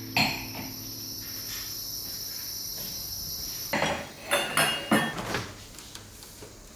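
A steady high chirring like crickets, with a sharp knock near the start and a quick run of clinks and clatters of small household objects being handled about four to five seconds in.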